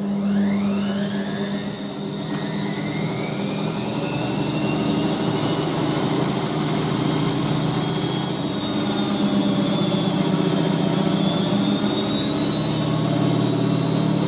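Washing machine spinning fast: the motor's whine rises over the first couple of seconds and then holds steady over a low hum.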